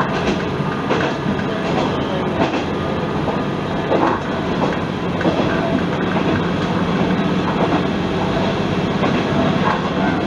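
Isumi Railway diesel railcar running along the line, heard from inside the cab. There is a steady engine and running noise, with occasional clacks of the wheels over rail joints.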